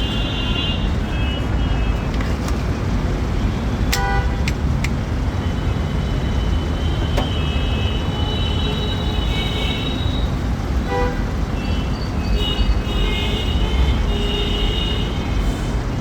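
Road traffic with a steady low rumble of engines, and vehicle horns honking several times: one near the start, another from about halfway, and a run of overlapping honks near the end.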